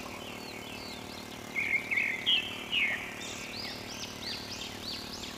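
A songbird singing a series of quick, high, arched chirps, loudest about two seconds in, over a faint steady hum.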